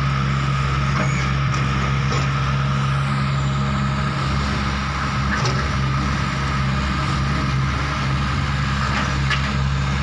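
Heavy diesel machinery engine running at a steady speed, with a steady high whine over it and a few faint clicks.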